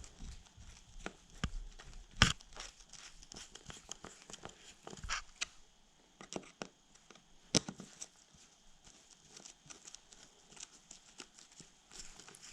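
Scattered clicks, taps and rustling as hands and a small screwdriver tighten the clutch master cylinder cap on a dirt bike's handlebar. The two loudest sharp clicks come about two seconds in and near the middle.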